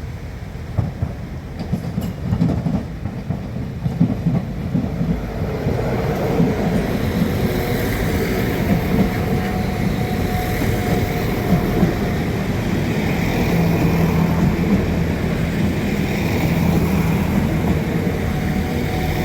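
A train passing over the level crossing. The rumble builds over the first few seconds, with wheels clicking over the rail joints, then holds steady with an engine hum.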